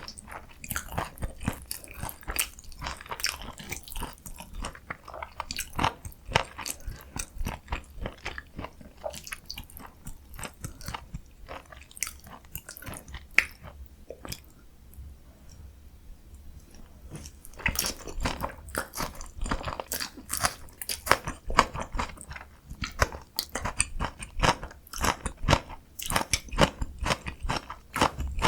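Close-miked eating sounds: a person biting and chewing food, with dense wet clicks and crunches. There is a quieter lull about halfway through, then the chewing picks up again.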